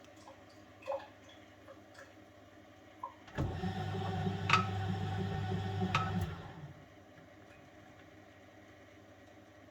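1971 Constructa Garant 491 washing machine mid-wash: after a few faint ticks, the drum motor starts abruptly and runs with a steady hum for about three seconds, with two sharp clicks, then stops and runs down.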